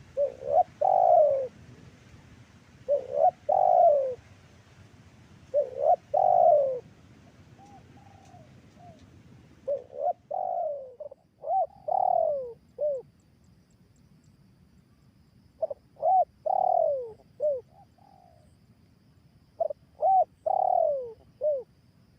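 Spotted dove (tekukur) cooing: six repeated phrases a few seconds apart, each a few short coos ending in a longer falling coo, used as a call to draw in wild doves.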